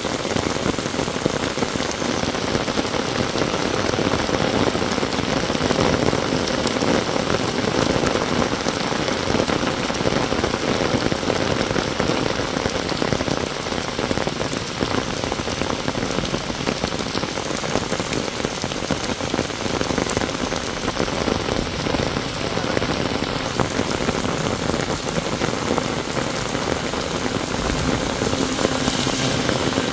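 Heavy rain falling steadily on a paved road and the roadside leaves.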